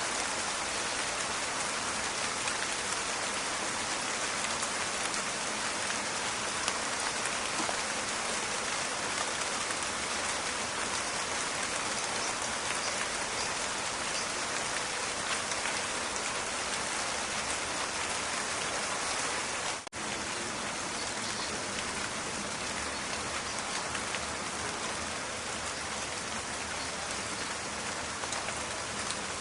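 Steady rain falling: a dense, even patter of many small drops, with a momentary dropout about two-thirds of the way through.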